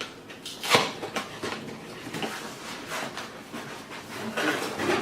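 Cardboard packaging being opened and handled: a sharp knock about three quarters of a second in, then scattered small clicks and a stretch of rustling near the end.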